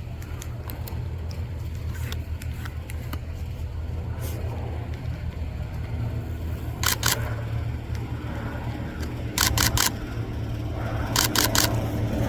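Single turboprop engine of a Cessna 208B Grand Caravan droning on approach, growing slowly louder with a higher hum joining near the end. Over it come quick bursts of camera shutter clicks: a pair about seven seconds in, four rapid clicks a couple of seconds later, and another burst near the end.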